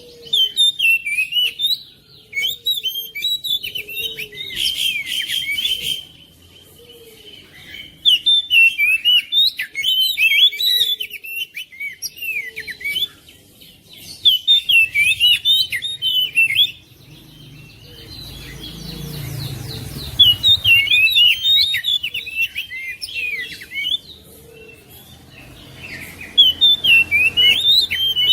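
Oriental magpie-robin (kacer) singing in about six bursts of rapid, varied chirping and whistled notes, each a few seconds long, with short pauses between them.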